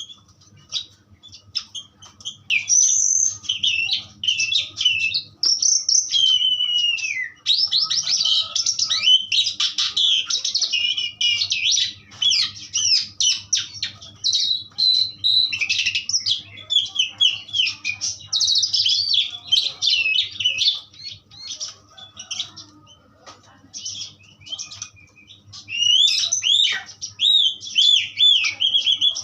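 Asian pied starling (jalak suren) singing a loud, varied song of whistled glides and chattering phrases, rich in notes copied from other birds. It goes sparser for a few seconds about two-thirds through, then picks up again near the end.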